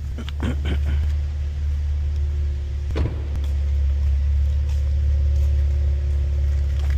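Stock 2016 Cadillac ATS-V's twin-turbo V6 exhaust idling steadily in track mode, a low even drone with no revving. A few short clicks near the start and one about three seconds in.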